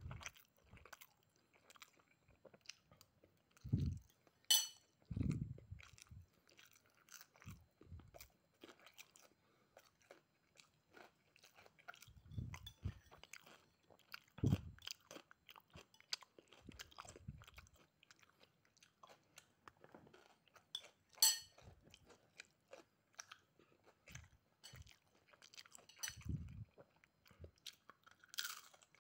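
Close-up chewing and crunching of a mouthful of fried rice with crisp rempeyek and fried salted fish. A metal spoon clinks and rings against the ceramic plate about four and a half seconds in and again about twenty-one seconds in, with occasional low thumps.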